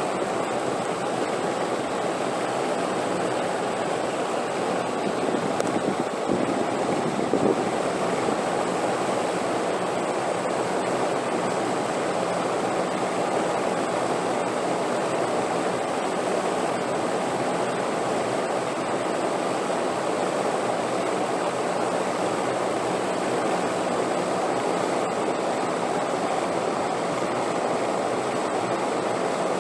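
Steady rushing wind noise with no gusts or breaks, swelling slightly about six seconds in. A faint thin high tone runs under it.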